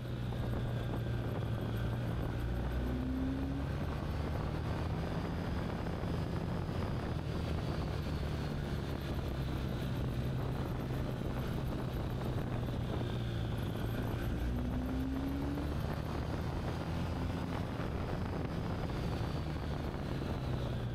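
Motorcycle engine running at a steady cruising speed on the road, its note holding steady under a constant rush of wind and road noise.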